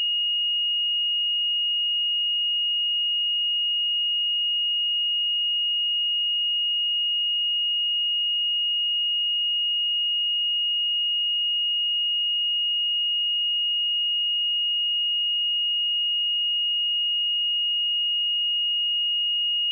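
A steady, pure 2867 Hz sine-wave test tone, one unchanging high-pitched note.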